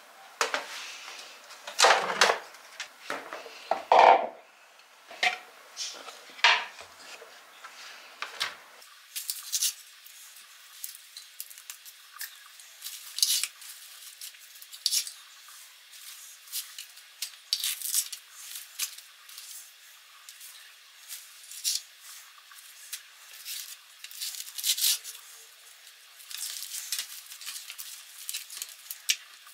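Dishes and cutlery clinking and knocking as they are handled, a string of separate sharp clatters. From about nine seconds in the sound turns thin, with its low end cut away.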